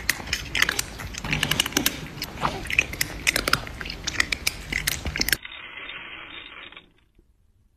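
Loud crunchy chewing and biting on crisp food, with many sharp crunches several a second. About five seconds in it drops to a quieter, muffled sound that stops about two seconds later.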